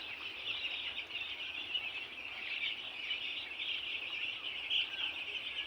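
A flock of chickens calling all at once, a dense, continuous high-pitched chorus of overlapping calls.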